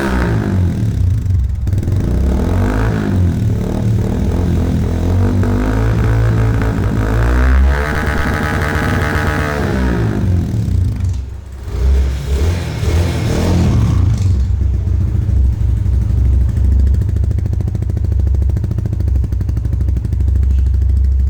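Yamaha FZS V3's 149 cc single-cylinder engine running through an aftermarket Akrapovič-replica full exhaust system, revving up and falling back several times, then running steady and low over the last several seconds.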